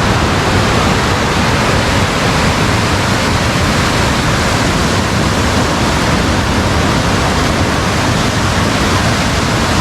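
Rain-swollen water rushing steadily, a loud, even torrent with no let-up.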